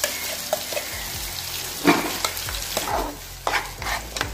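Ground onion and red chili paste sizzling in hot oil in a frying pan, while a steel spatula stirs it and scrapes the pan several times.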